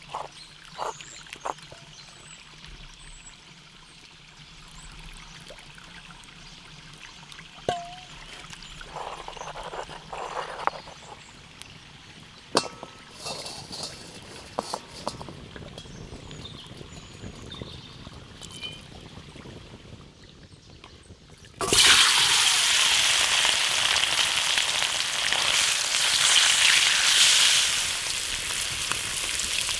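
A few grinding knocks of a pestle in a stone mortar, then a quiet stretch with a stream trickling. About two-thirds through, chicken pieces go into hot oil in a wok over a campfire, and a loud, steady sizzle of frying starts suddenly and continues.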